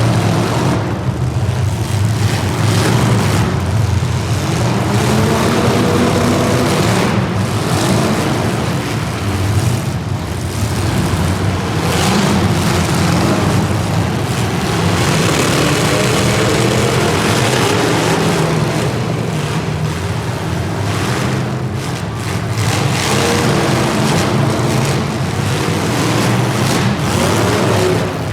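Motor vehicle engines running continuously, their pitch rising and falling, as with revving.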